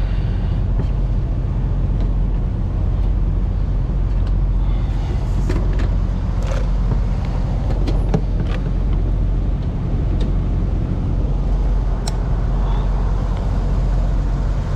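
A truck engine idling steadily, with a few sharp clicks about midway and near the end.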